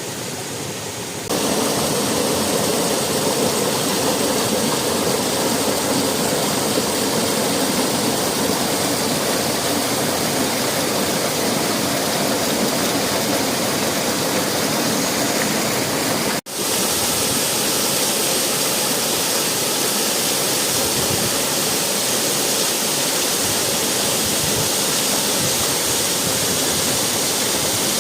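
Waterfall: a loud, steady rush of falling water. It gets louder a little over a second in and cuts out for an instant past the halfway point.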